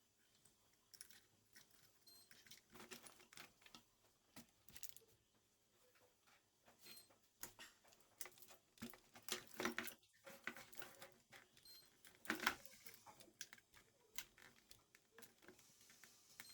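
Faint, irregular clicks and short rustles, a little louder around nine to ten seconds and twelve seconds in.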